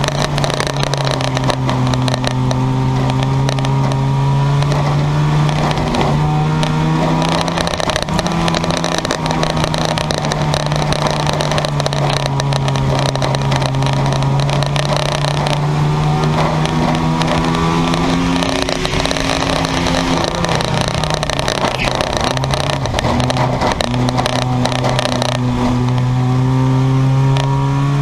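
Junkyard race cars' engines running hard around the oval, several engines overlapping. The pitch drops as they lift off, about a third of the way in and again after two-thirds, then climbs back as they get on the throttle.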